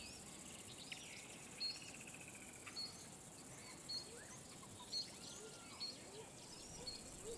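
Wild birds calling in the bush: a short high chirp repeated about once a second, with a brief trill early on and other faint whistled calls, over quiet outdoor ambience.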